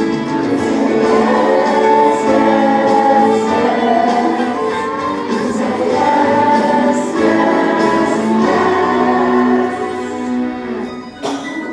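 Choir singing a song with music.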